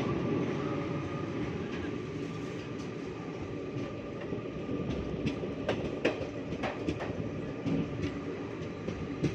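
Passenger train running along the track: a steady rumble of wheels on rail, with a few sharp clicks of wheels over rail joints in the second half.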